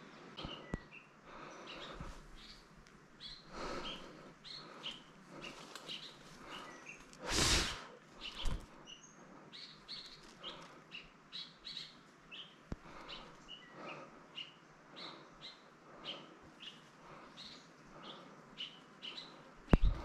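Small birds chirping in short, repeated calls throughout. A loud burst of noise lasting about a second comes a little past the middle, and two sharp clicks come near the end.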